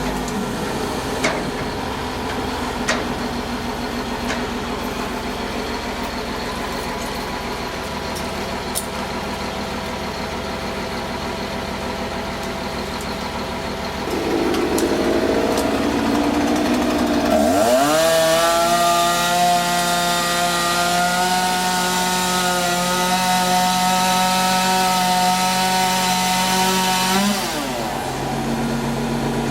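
Two-stroke chainsaw running at idle, then revved up a little past halfway and held at full throttle for about ten seconds before dropping back to idle near the end.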